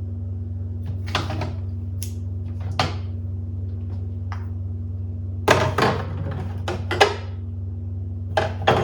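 Food containers and jars being handled and set down on refrigerator shelves: a series of irregular knocks and clatters, busiest in the second half, over a steady low hum.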